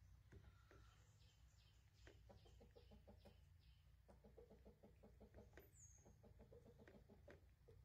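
Faint bird calls: two runs of quick, short repeated notes, several a second, with a brief high chirp between them, over a low hum.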